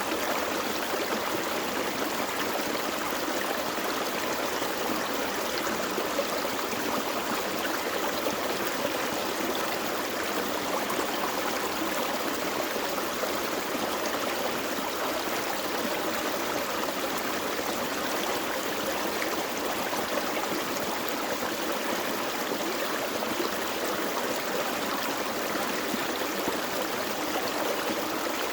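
A small forest creek flowing over rocks, a steady rushing and trickling of water that keeps an even level throughout.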